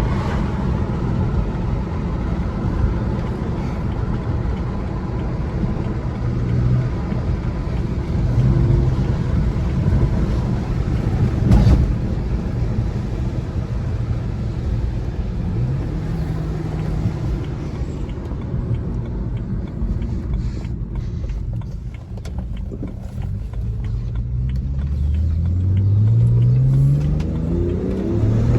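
BMW 335xi's twin-turbo N54 inline-six with an Injen cold air intake, heard from the cabin over tyre and road noise: it runs along at moderate revs, then pulls hard near the end with the engine note climbing steadily as it accelerates.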